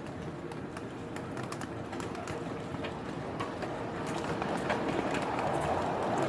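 Miniature live-steam ride-on train running on its track, with scattered clicks over a steady running noise that grows louder toward the end as it comes closer.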